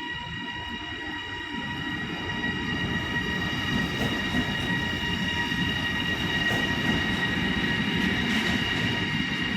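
A train running through the station, its low rumble growing steadily louder as it comes closer, with a steady high-pitched whine over it.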